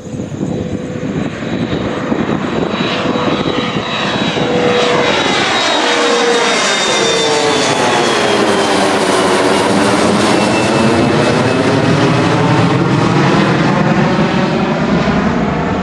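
Delta CRJ-900 regional jet's twin rear-mounted turbofans at takeoff power as it passes close by. The engine whine drops in pitch a few seconds in, and the noise swells into a loud, steady roar that holds to the end.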